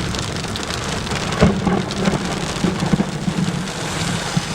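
Heavy rain from a severe thunderstorm pouring down, a steady hiss with a low rumble beneath it and scattered sharp drop hits, the sharpest about a second and a half in.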